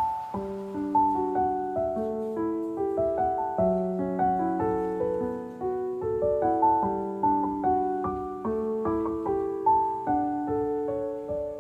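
Gentle background piano music: a slow arpeggiated melody with notes that ring on and fade.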